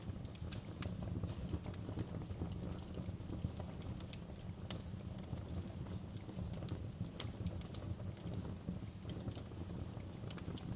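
Wood fire in a fireplace burning steadily with a low rumble of flames and frequent irregular crackles, with a few sharper pops about halfway through and again about three quarters of the way in.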